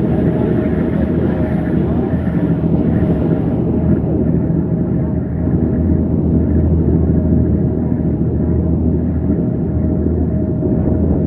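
A large engine running steadily: a low rumble with a constant hum over it, and voices faintly in the background.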